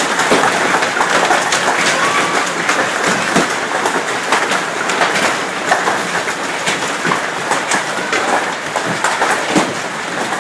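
Heavy hailstorm: a dense, steady clatter of hailstones pelting hard surfaces, with many sharp individual hits throughout.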